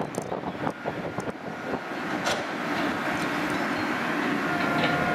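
A train's running noise builds over the first few seconds and then holds steady, with thin whining tones over it and a second, lower tone joining near the end.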